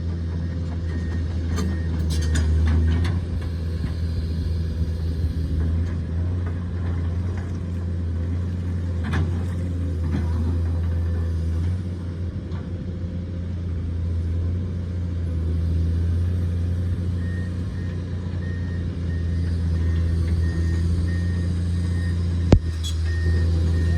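Excavator's diesel engine running steadily with a low drone and some clatter. Past the middle its travel alarm starts beeping evenly, and near the end there is one sharp metallic knock.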